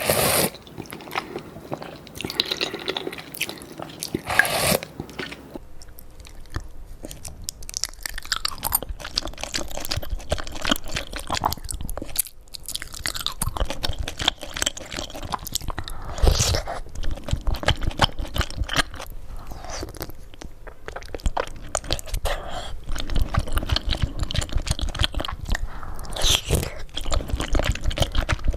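Close-up eating sounds of a person taking bites and chewing, with rapid crunchy and wet clicking mouth sounds and a few louder bites.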